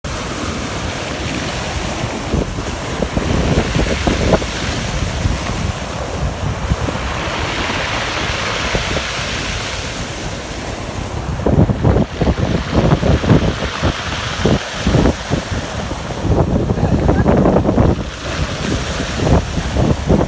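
Sea surf washing in, with wind buffeting the microphone. A wave's hiss swells in the middle, and wind gusts rumble through the second half.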